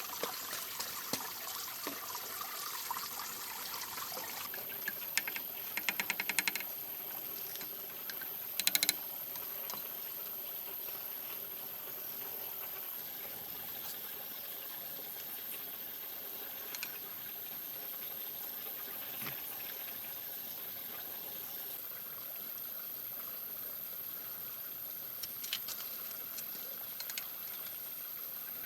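Water trickling steadily, with short runs of sharp clicks or knocks about five to six seconds in and again around nine seconds.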